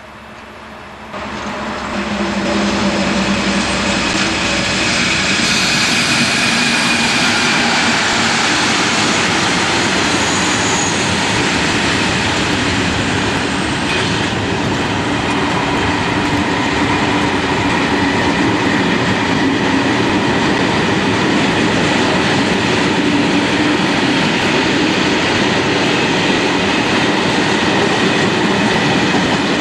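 Diesel locomotive train running, with engine drone and steady rail and wheel noise. The sound rises sharply about one to two seconds in, then holds loud and steady.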